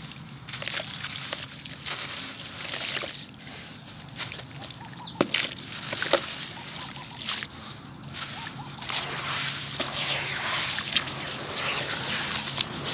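Black gritty sand-and-cement bowls crumbling in water: sloshing and a continuous fine crackle of grit, with many small sharp clicks.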